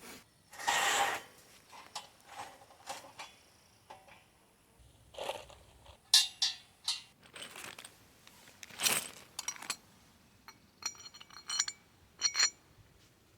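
Loose metal bolts and hardware clinking and scraping as they are handled, in scattered separate knocks, with a few short metallic rings near the end.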